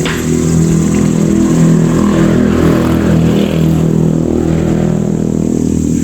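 An engine running steadily, a low even hum with a short click right at the start.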